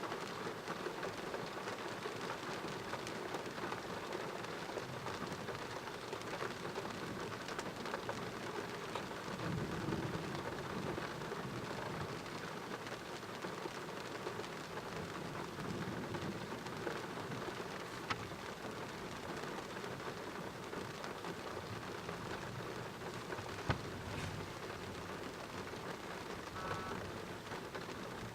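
Heavy rain falling steadily in a thunderstorm, with a low rumble of thunder swelling about ten seconds in. A couple of sharp drip-like clicks come near the end.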